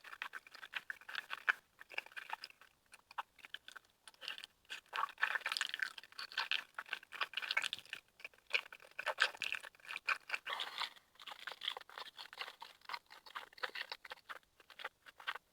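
A person chewing and eating close to the microphone: a quick, irregular run of small mouth clicks and short bursts of noise with brief pauses between bites.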